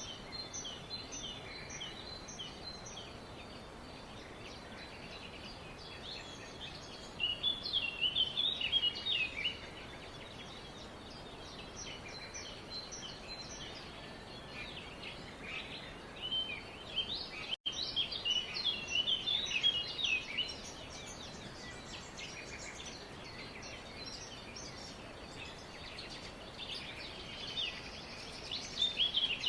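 Several birds chirping in a forest chorus: quick, high, twittering chirps that come in louder bouts of a few seconds, about a quarter of the way in, just after halfway and near the end, over a steady background hiss. The sound drops out for an instant just after halfway.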